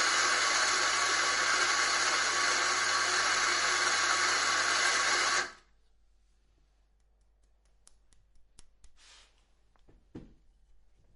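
Electric coffee grinder motor grinding beans with a steady whirring hum, switching off abruptly about five and a half seconds in. Faint clicks, rubbing and a small knock follow.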